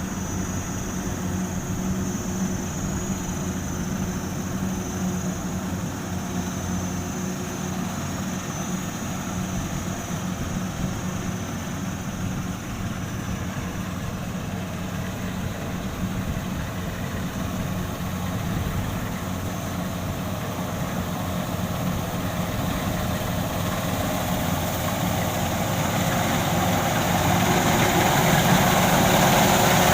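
Kubota rice combine harvester's diesel engine running steadily at work, growing louder over the last few seconds.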